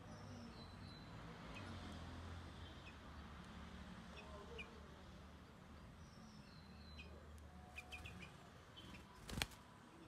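Faint, short bird chirps and thin high whistles scattered through, with a quick cluster of chirps about eight seconds in, over a low steady hum. A single sharp knock near the end is the loudest sound.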